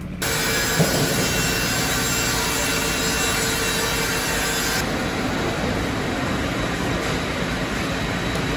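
Industrial band sawmill, a Wood-Mizer WB2000, sawing through a log with a steady, dense running noise.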